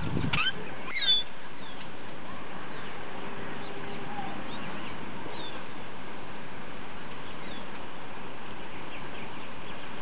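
Birds chirping: a quick cluster of short, curving chirps in the first second or so, then a few scattered chirps later, over a steady hiss. A brief low thump comes right at the start.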